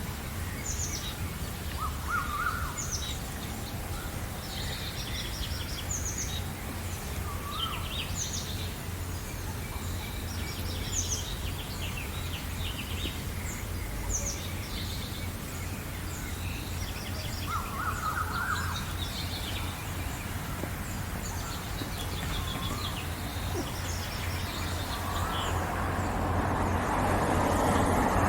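Several birds chirping and singing in short, repeated high phrases, with a few lower calls, over a steady low rumble. Near the end a broad rushing noise swells up beneath the birdsong.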